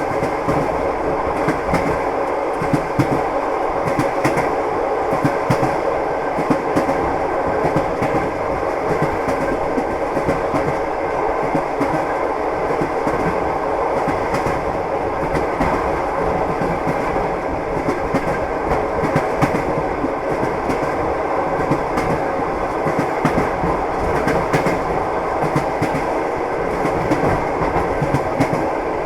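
Train wheels clattering over the rail joints: a steady rumble with many sharp clicks, the clickety-clack of a train running along the track.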